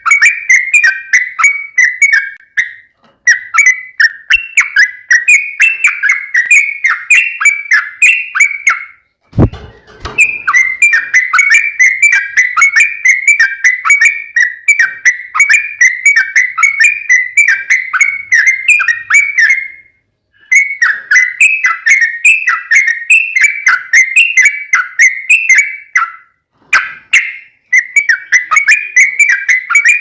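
Yellow-vented bulbul (trucuk) singing its long rolling song: fast runs of repeated clear whistled notes in phrases several seconds long, separated by short pauses. A single low thump sounds about nine seconds in.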